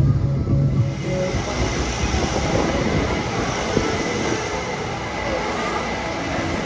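A train rolling past: a steady rumble of cars on the rails with a thin high squeal over it.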